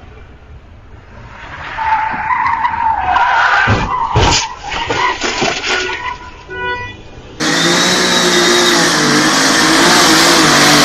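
A car skidding with a wavering tyre squeal, with a few heavy impacts about four seconds in. At about seven and a half seconds it jumps abruptly to a loud, steady hiss with a low engine-like hum under it.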